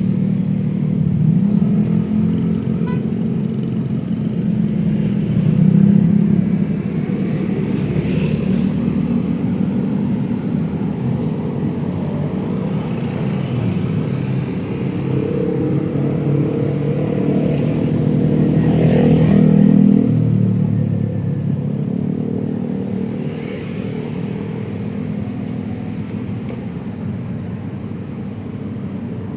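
Continuous city road traffic of cars and motorcycles running past, swelling as vehicles pass about six and nineteen seconds in.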